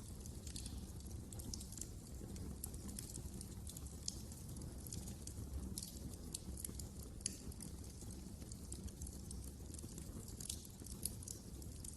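Wood fire crackling in a fireplace: frequent small, irregular crackles and pops over a low, steady rumble of burning.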